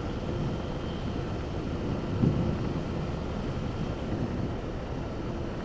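Motorcycle running steadily at cruising speed on the road, with wind rushing over the microphone.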